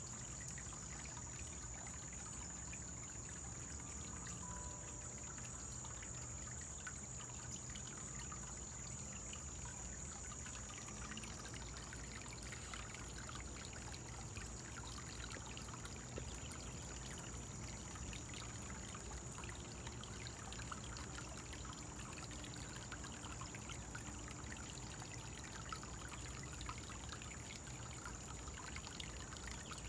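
Koi pond waterfall trickling steadily, with a steady high-pitched whine running throughout.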